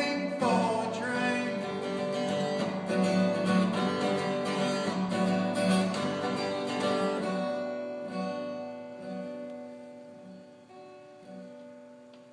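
Acoustic guitar playing the closing bars of a country song, then the last chord ringing out and fading away over the final few seconds.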